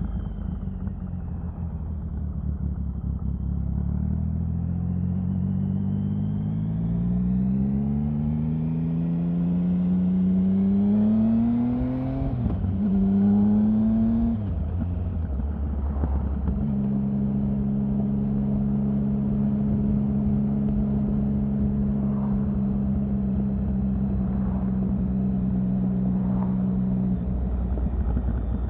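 Triumph Sprint 1050's inline three-cylinder engine accelerating: its pitch climbs for several seconds, dips at a gear change, climbs briefly again, then holds steady for about ten seconds at cruising speed before easing off near the end.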